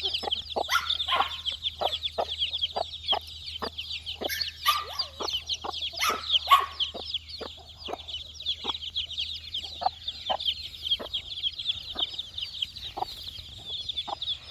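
A flock of four-day-old chicks peeping continuously, many high, quick, falling peeps overlapping, with a few lower clucking calls and frequent short sharp clicks.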